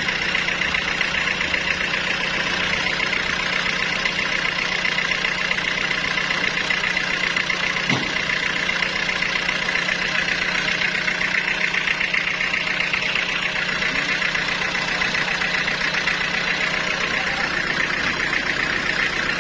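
Sawmill machinery running steadily: a constant low hum under a continuous high whine.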